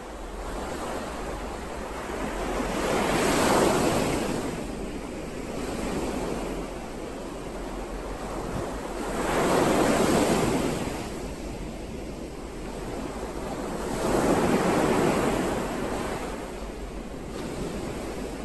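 Ocean waves breaking on the shore, a steady wash of surf that swells three times, about every five to six seconds, each wave rising and falling away over a few seconds.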